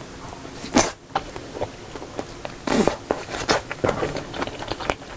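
Close-miked eating sounds of a mouthful of shrimp fried rice taken from a wooden spoon. There is a sharp smack about a second in and another near the three-second mark, then a run of small wet chewing clicks.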